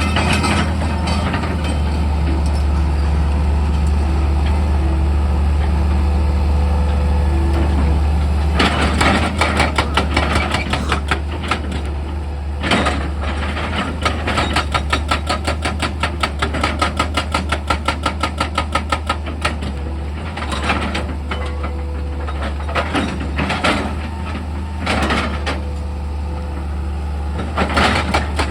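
Excavator's diesel engine running with a steady low drone. About a third of the way in, rapid metallic clattering starts and comes and goes in bursts over the engine.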